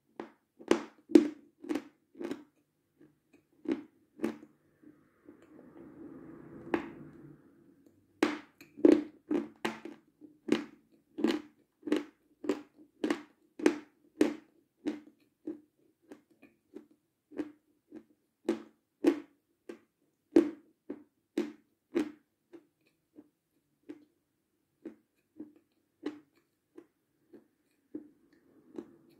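A person chewing a full mouthful with the lips closed: steady, moist mouth clicks about twice a second, with a brief breathy hiss about five to seven seconds in.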